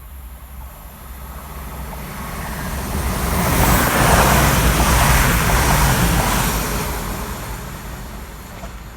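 A train passing through the station: a rushing, rumbling noise that swells, peaks in the middle and fades away.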